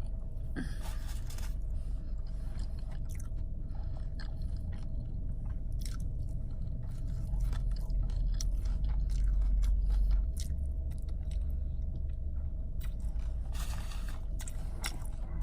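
Close-up chewing and biting: short crunchy and wet mouth clicks of someone eating, over a steady low hum that swells for a few seconds partway through.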